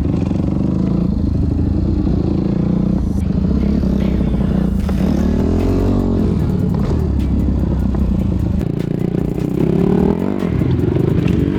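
Dirt bike engine running close by, its pitch rising and falling twice as the throttle is opened and eased off.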